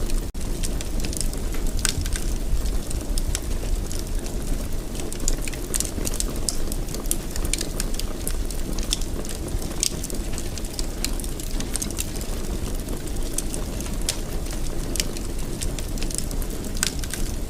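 Wood fire burning in a fireplace: a steady low rumble of the flames with irregular sharp pops and crackles of the burning logs.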